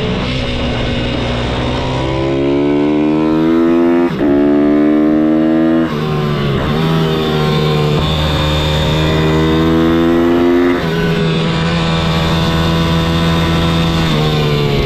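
Pitbike's single-cylinder four-stroke engine (MRF 160-R SM) accelerating hard, its pitch rising through the gears with quick breaks for gear shifts about four and six seconds in. Near eleven seconds it drops off the throttle, then runs on at a steadier speed.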